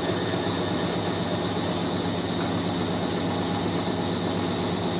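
Hoover A3060 Electronic 1100 washing machine spinning at speed, a steady mechanical whine and rush with no change in pitch, while the drain pump sends water gushing out through the drain hose.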